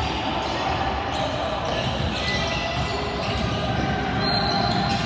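Basketball bouncing on a gym court during a game, with the steady din of the gym and background talk.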